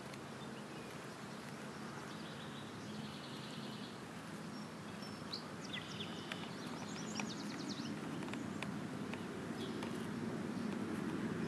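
Birds chirping and trilling now and then over steady low background noise, which grows a little louder toward the end.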